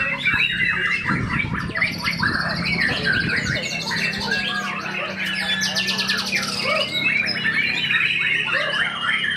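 White-rumped shama (murai batu) singing a fast, varied song of trills, rattles and mimicked calls, with a long held whistle near the end. Other caged songbirds sing over it, and a faint low steady hum runs underneath.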